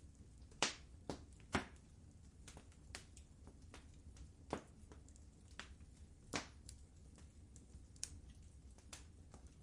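Wood fire crackling in a fireplace: irregular sharp pops and snaps, a few louder than the rest, over a low, steady rumble of the burning fire.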